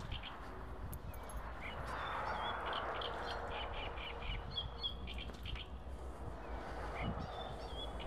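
Birds chirping in short, repeated calls over a steady low rumble of wind on the microphone.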